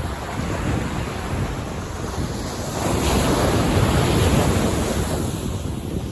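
Ocean waves breaking on a beach, one wave swelling to a loud rush about halfway through and then washing back, with wind buffeting the microphone.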